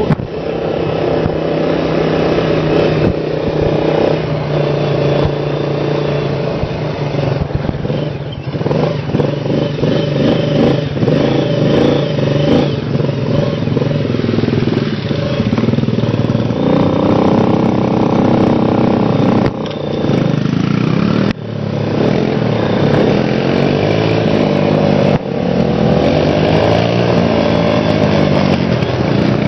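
Dirt bike engine running while riding, revving up and down so its pitch rises and falls again and again.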